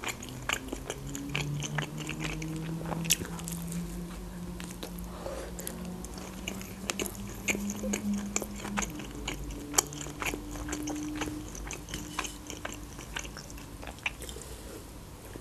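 Close-up chewing of Turkish flatbread: soft crunches and wet mouth clicks coming irregularly, several a second.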